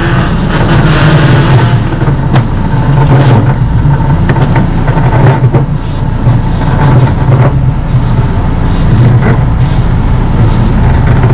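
Off-road 4x4's engine running steadily at low revs, with a few sharp knocks over the top.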